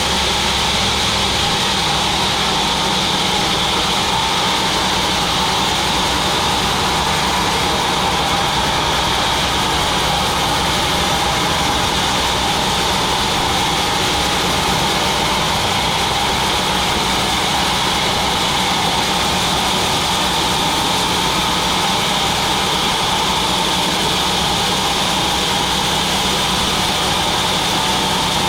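Sawmill machine running with a steady, unchanging mechanical drone.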